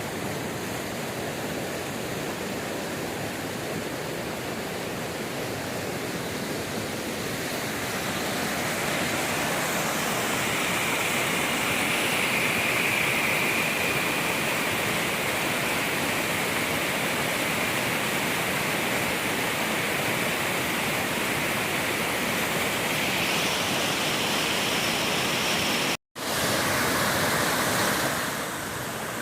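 Water rushing over a creek waterfall, a steady noise that grows louder about eight seconds in and drops back near the end. It cuts out for an instant about 26 seconds in.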